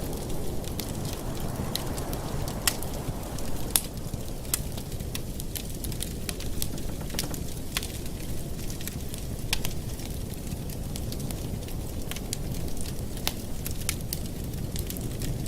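Wood fire burning in a fireplace: a steady low rush of flames with scattered sharp crackles and pops, two louder pops about three and four seconds in.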